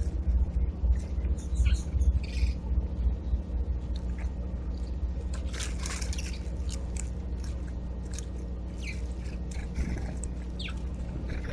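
Scattered short, high chirps and ticks from small birds at a backyard feeder, busiest around the middle, over a steady low rumble.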